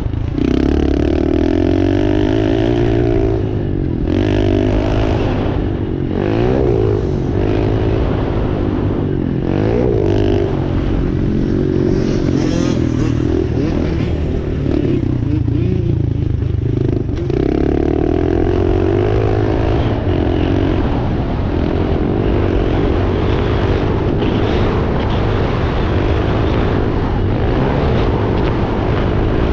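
Dirt bike engine running hard and continuously, its pitch repeatedly climbing and dropping as the throttle is opened and closed and gears change while it is ridden around a motocross track.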